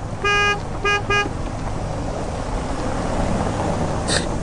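A vehicle horn honks three times, one longer beep followed by two quick short beeps, over a steady rumbling noise of the toy truck rolling on concrete. A short sharp click comes near the end.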